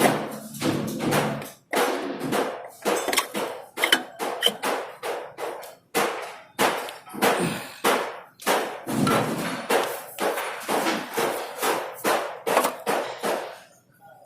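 Repeated hammer blows, irregular at about two or three a second, with music playing underneath; the blows stop near the end.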